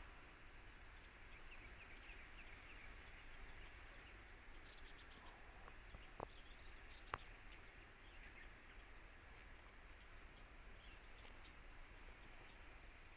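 Faint outdoor ambience: scattered short bird chirps over a low, even background hiss. Two sharp clicks sound about six and seven seconds in.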